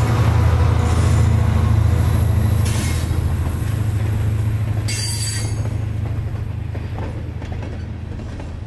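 Freight train passing close by. The deep diesel rumble of the trailing Union Pacific locomotives fades away as loaded centerbeam lumber cars roll past, their wheels clattering on the rails, with short high-pitched bursts of wheel noise about 3 and 5 seconds in.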